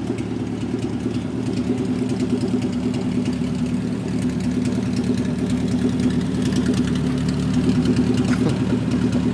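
Honda Civic's four-cylinder engine idling steadily, getting a little louder near the end.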